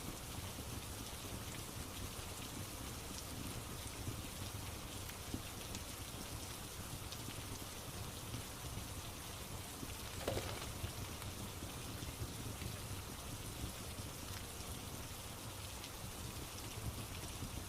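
Steady rain falling on a surface, an even hiss with scattered faint ticks of drops. About ten seconds in there is one louder, sharper pop.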